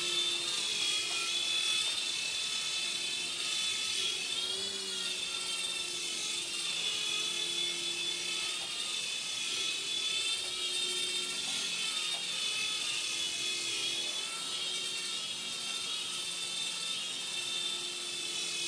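Small electric motors and rotors of a toy RC helicopter whining in flight, a steady high whine whose pitch wavers up and down every few seconds.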